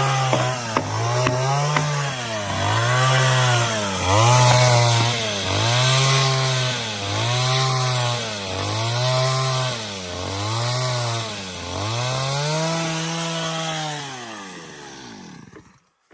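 Two-stroke chainsaw running hard through wood. Its engine pitch rises and falls in a regular rhythm, about once every second and a half, then fades away near the end.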